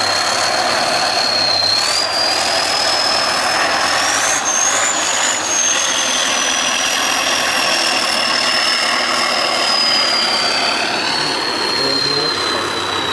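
Tatra 815 6x6 truck's air-cooled diesel engine running under load, with a high whine that climbs about four seconds in and then slowly falls away.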